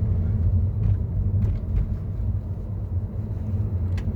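Road and drivetrain rumble inside the cabin of a 2015 Mercedes-Benz E-Class (W212) on a test drive, with a few faint light ticks. No clunk comes from the front suspension, which is now quiet on its newly replaced tension strut.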